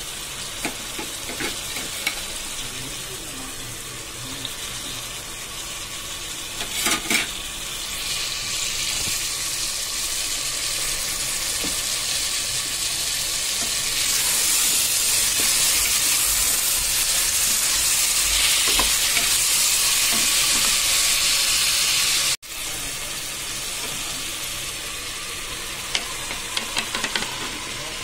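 Vegetables sizzling in hot oil and masala in a pressure cooker as they are stirred with a wooden spatula: a steady frying hiss that grows louder about halfway through, with a few short knocks of the spatula against the pot.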